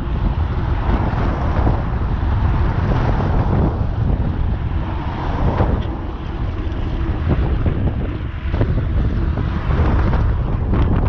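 Strong wind buffeting the microphone, a loud steady rumble that surges and eases.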